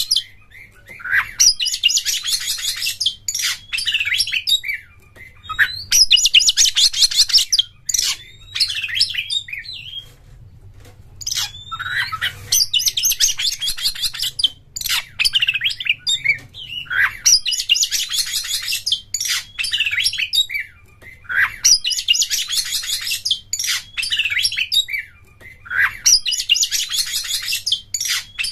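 Oriental magpie-robin (kacer) singing in the rapid, rattling 'konslet' style. A phrase comes every three to four seconds: a sharp rising note, then a fast, dense high trill lasting a second or two.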